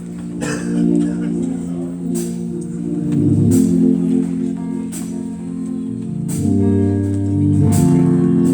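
Organ playing held chords that change every second or so, with a sharp percussive hit about every second and a quarter keeping the beat.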